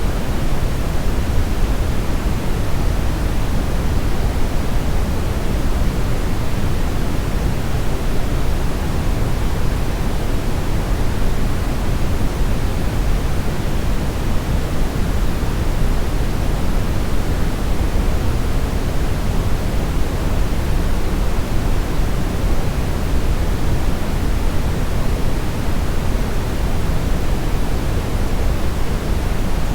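Steady brown noise: an even, deep rushing hiss, strongest in the bass and fading toward the treble, unchanging throughout.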